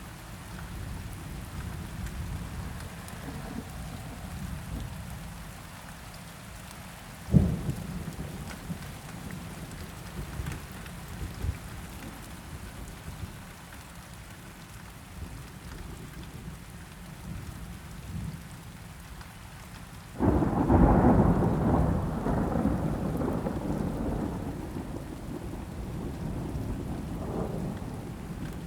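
Steady rain with low thunder rumbling under it. A sharp thunderclap comes about seven seconds in, and a loud rolling peal of thunder about two-thirds of the way through fades away slowly.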